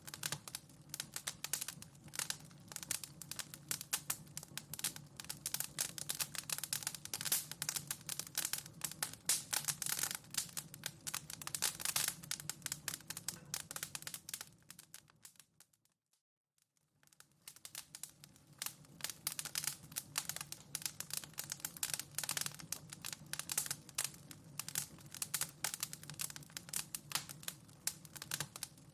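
Wood fire in a fireplace crackling and popping, a dense run of sharp snaps over a steady low rumble. About halfway through it fades out to near silence for a second and fades back in, the seam of the loop.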